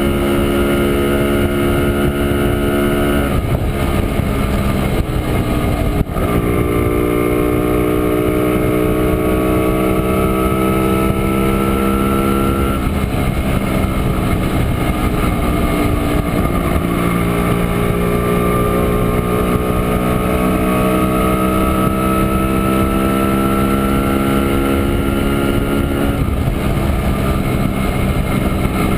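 Two-stroke single-cylinder engine of a 1967 Montesa Impala Comando 175 cc motorcycle, heard from on board while riding. Its pitch climbs slowly under load, then breaks off and drops back several times before climbing again, with wind rushing past.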